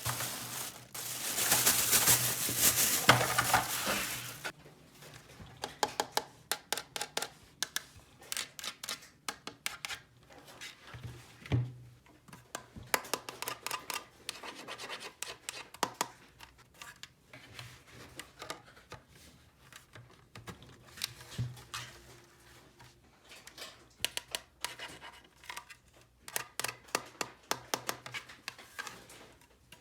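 Rustling and rubbing of plastic toy packaging for the first four seconds or so, then many small sharp clicks and taps of little plastic toy pieces being handled and fitted together.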